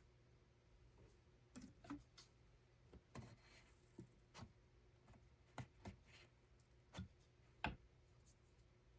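Faint, irregular clicks and light taps of small objects being handled, about a dozen in all, with a short rustle just after three seconds in.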